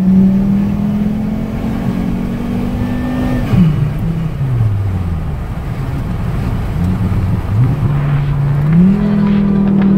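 2005 Volvo S60's turbocharged five-cylinder engine under hard acceleration, heard from inside the cabin. The engine note climbs for about three and a half seconds, drops sharply and sinks low, then climbs back up near the end.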